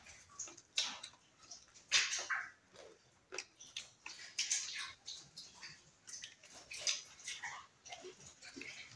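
Wet chewing and lip-smacking of people eating, a quick irregular run of moist clicks and smacks.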